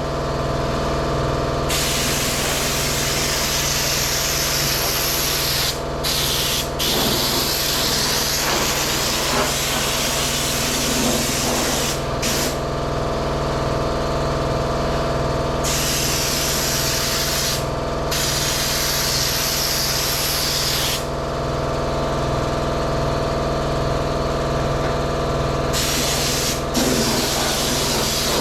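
Spray gun hissing as bed liner is sprayed, in long bursts that stop several times for a few seconds, over a steady low machine hum.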